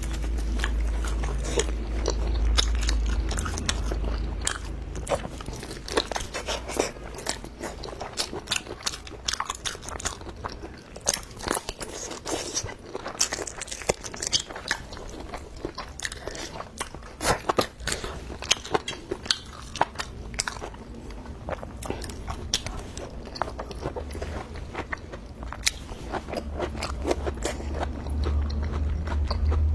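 Close-miked chewing and biting of food, with many small irregular crunches and wet clicks. A low rumble sits under it at the start and again near the end.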